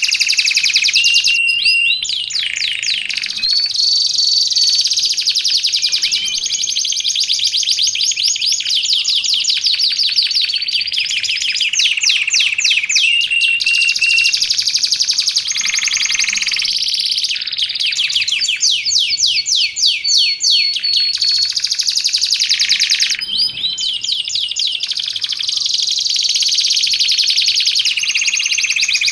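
Domestic canary singing a long, continuous song of rapid rolling trills and held whistled notes, with only brief breaks.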